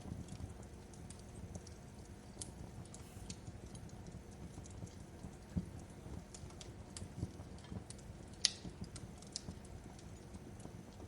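Wood fire crackling: irregular small pops and snaps over a low rumble, with one sharper pop about eight and a half seconds in.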